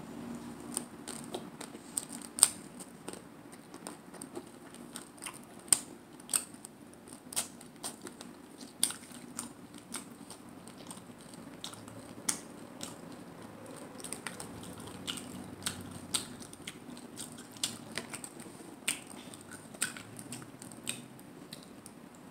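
Close-up chewing of crunchy hard corn taco shells: sharp, irregular crunches about once or twice a second, a few of them much louder than the rest.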